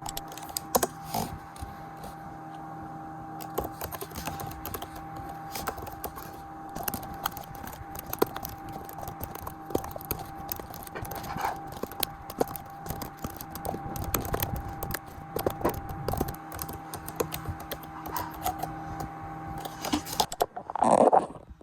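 Typing on a computer keyboard: a steady run of irregular key clicks, over a faint steady electrical hum. A short, louder noise comes near the end.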